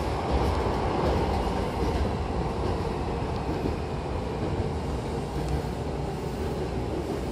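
Hankyu commuter train running, heard from inside the carriage: a steady rumble of wheels on rail.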